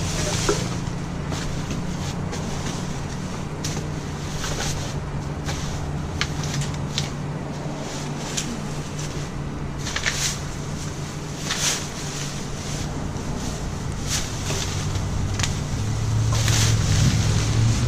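A vehicle engine idling steadily, with scattered short clicks and rustles of things being handled.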